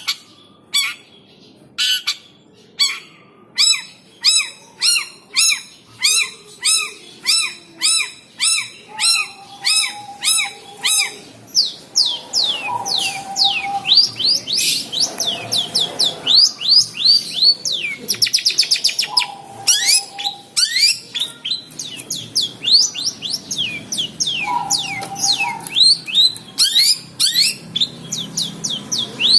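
Long-tailed shrike (cendet) calling harshly when provoked: a steady run of rasping notes about two a second, giving way about eleven seconds in to a faster, denser chatter of sharp falling notes. A short held whistle-like note breaks in every five or six seconds.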